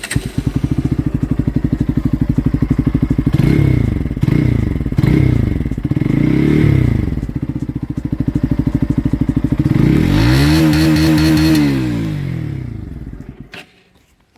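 Bajaj Pulsar NS single-cylinder engine idling with a steady pulse through its exhaust, which has been modified at the DB killer to run louder. It is blipped four times in quick succession, then given one longer rev, and it cuts off near the end.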